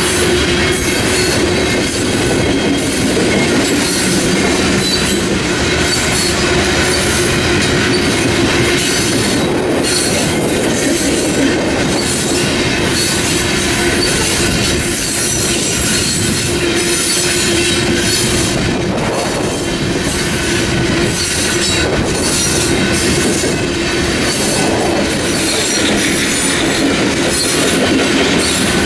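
Freight train of coal cars rolling steadily past: a loud, continuous clatter of steel wheels on the rails, with a steady wheel squeal.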